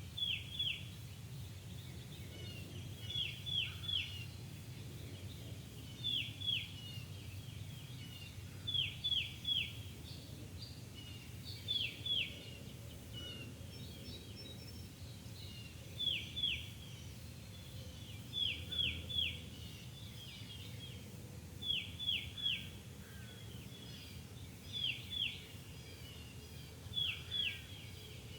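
A songbird singing repeated phrases of two or three short, clear downslurred notes, a phrase every two to three seconds, over a steady low rumble.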